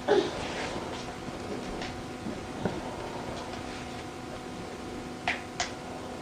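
Wood fire burning in a Dovre 760 WD cast-iron stove with its air supply shut off: sparse faint ticks and crackles over a steady low hum, with two sharper clicks about five seconds in and a brief louder sound right at the start.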